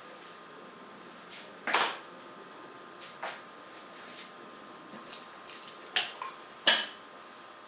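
A few short, sharp taps and clicks at irregular intervals, the loudest three about two seconds in and near the end, over a faint steady hiss.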